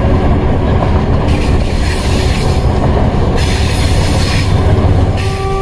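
Diesel locomotive running at speed, heard from its cab doorway: a heavy, steady rumble of engine and wheels on the rails, with stretches of higher hiss and squeal coming and going.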